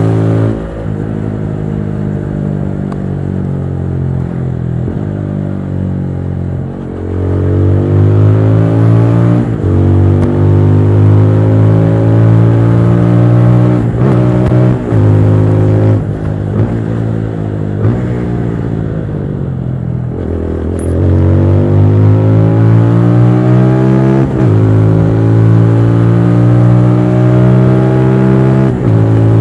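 TVS Apache RTR 200 4V's single-cylinder engine pulling hard through the gears, its pitch climbing and dropping sharply at each upshift. About two-thirds of the way through it slows, with quick throttle blips on the downshifts, then accelerates again.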